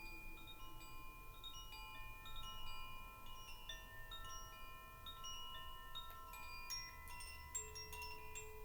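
Chimes ringing softly: clear single tones at many different pitches, struck at irregular moments and ringing on so that they overlap.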